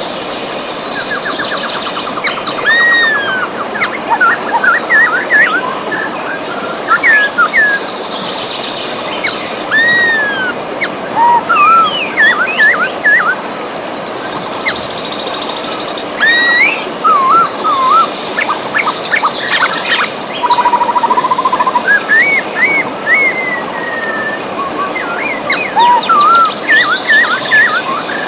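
River water flowing steadily, with several birds singing over it: clear rising and falling whistles and quick trills that come in bunches every few seconds.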